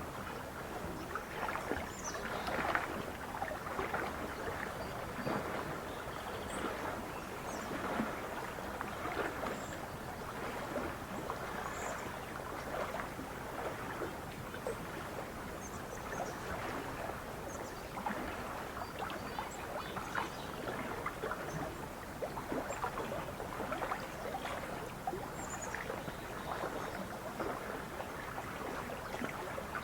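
Lake water lapping and splashing gently and continuously, with faint short bird chirps scattered over it.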